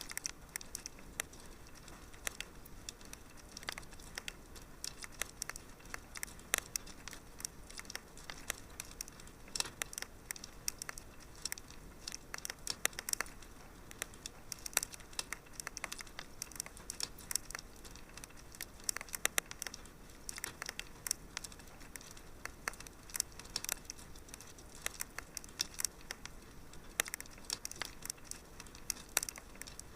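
Wood fire crackling in a fireplace: a steady run of small irregular pops and snaps over a soft low hiss.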